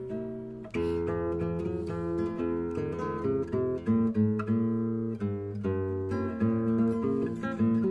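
Instrumental acoustic guitar music: a steady run of plucked notes and strummed chords.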